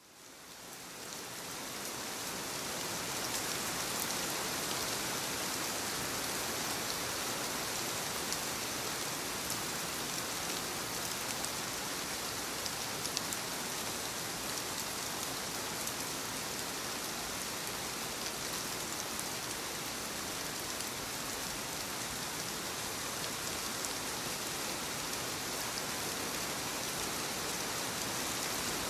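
Steady rainfall pattering on a surface, an even hiss with scattered drop ticks, fading in over the first couple of seconds.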